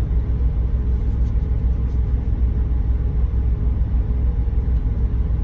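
Steady low rumble of the truck's engine running, heard inside the cab, with a few faint light clicks in the first couple of seconds.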